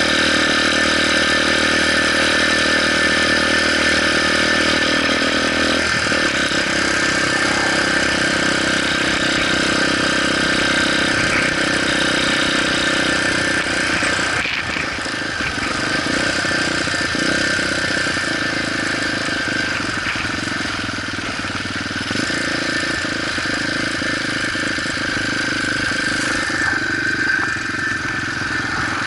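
Motorcycle engine running steadily, its sound changing about six seconds in.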